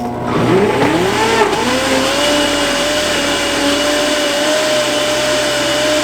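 Countertop blender motor spinning up, its pitch rising over the first second and a half, then running steadily at full speed.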